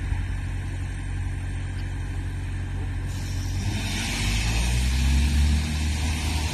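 Steady low engine rumble that grows louder with a rising rush of hiss about three to four seconds in.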